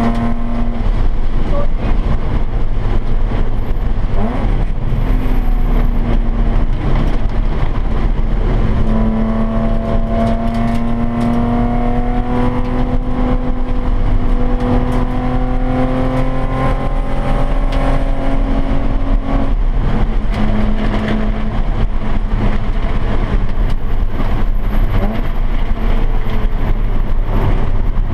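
Nissan 350Z's 3.5-litre V6 running hard on track, heard from inside the cabin over steady road and wind noise. About a third of the way in, the engine note climbs slowly for about ten seconds in one long pull, then drops suddenly.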